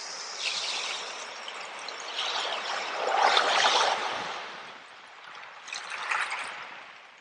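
Water trickling and splashing, as in a small stream, rising and falling in waves, loudest about three to four seconds in and fading near the end.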